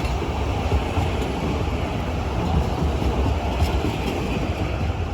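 Steady low rumble of a narrow-gauge train running along the track, with a few faint ticks above it.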